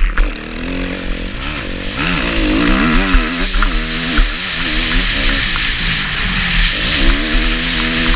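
Kawasaki KX250F four-stroke single-cylinder motocross engine under hard throttle, its pitch rising and falling over and over as the rider opens and closes it and shifts around the track.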